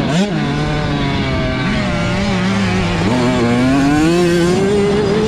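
Dirt bike engines revving, their pitch rising and falling as the throttle is worked. More than one engine is heard at once, and one climbs steadily in pitch over the last couple of seconds.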